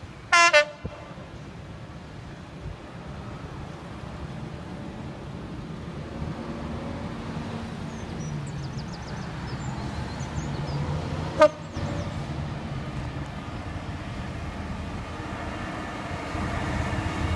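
Train horns sound twice: a loud double toot just after the start and a single short blast about eleven seconds later. Underneath, the low rumble of an approaching Class 66 diesel freight locomotive hauling a container train grows steadily louder.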